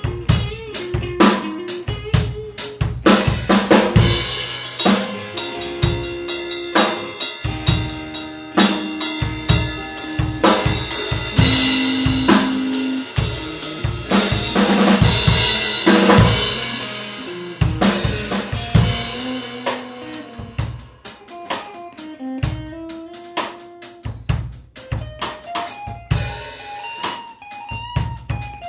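Improvised blues-fusion jam: a drum kit playing a busy groove of kick, snare and cymbals, with a guitar picking a single-note melody over it. The cymbal wash drops away a little past halfway, leaving the drums and guitar lines more exposed.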